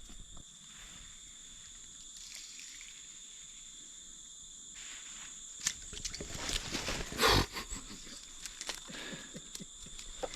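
Steady high-pitched insect drone of the rainforest, with a run of clicks and knocks in the second half and one loud rustling knock about seven seconds in.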